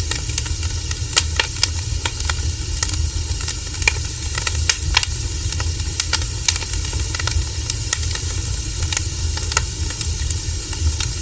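Wood fire burning: a steady hiss and low rumble with irregular sharp crackles and pops of burning firewood.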